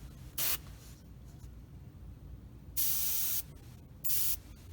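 HP-M2 airbrush spraying thinned Tamiya paint in short trigger bursts: three hissing bursts, a brief one about half a second in, a longer one near three seconds and a brief one just after four seconds, laying down a thin first coat.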